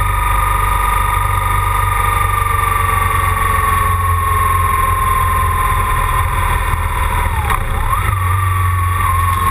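BMW GS boxer-twin motorcycle engine running at road speed, heard from on board over a heavy rush of wind, its pitch sliding slowly down as the bike slows. About seven and a half seconds in the pitch briefly drops and jumps back up, a gear change, then settles.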